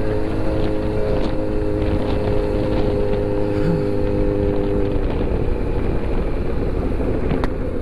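Kawasaki Z900's inline-four engine running at a steady pitch on the move, with wind noise over the microphone. About five seconds in the steady engine tone drops away, leaving mostly wind and road noise.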